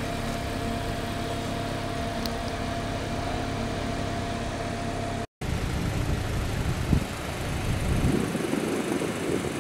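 Car engine idling steadily with an even hum. The sound drops out for an instant about five seconds in, then a rougher engine noise follows, with a single knock near seven seconds.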